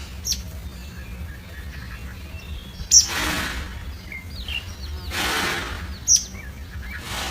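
Small birds chirping in short, sharp, high notes, three of them loudest, with fainter squeaky chirps between. Three bursts of hissing noise, each under a second, sound twice in the middle and once starting near the end.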